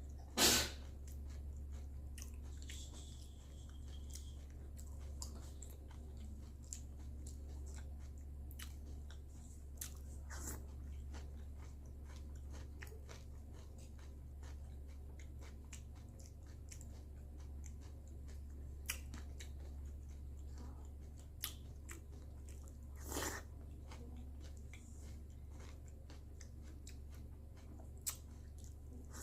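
A person chewing and crunching cereal close to the microphone, with a few louder clicks now and then over a steady low hum.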